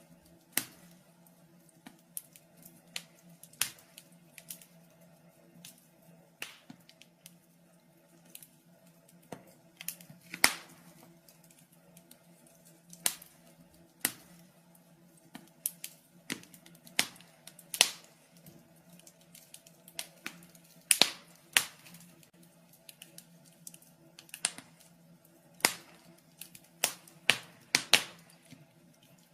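Wood fire crackling in a fireplace: irregular sharp pops and snaps, about one or two a second and some much louder than others, over a faint steady low hum.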